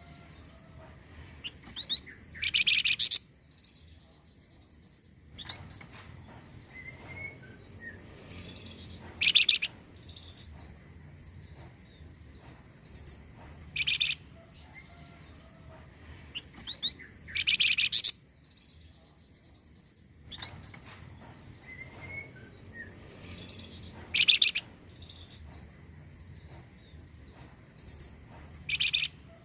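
Song of a flamboyan bird (Indonesian cage-bird name): loud, bright phrases every few seconds with softer chirps and notes between, repeating in a loop, a lure recording meant to stimulate other birds to sing.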